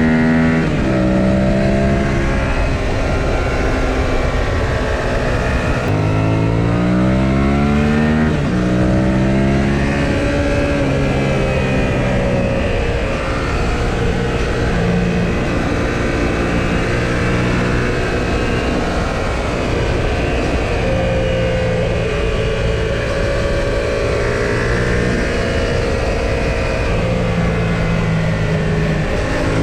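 2018 Yamaha XSR700's parallel-twin engine under way. Its revs climb and then drop sharply at a gear change about eight seconds in, then it runs fairly steady through the rest, with wind rush underneath.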